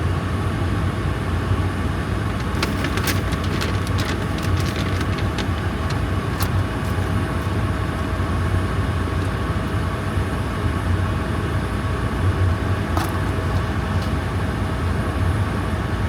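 Steady low rumble of an SUV's engine and road noise heard from inside the cabin, with a few light clicks about three to four seconds in and again near the end.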